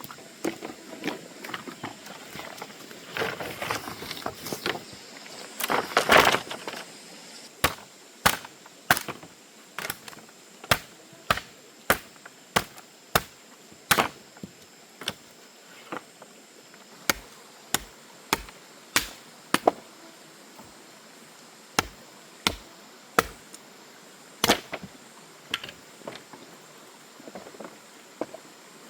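Repeated sharp chopping blows on wood, spaced about a second apart, after a stretch of rustling and scraping.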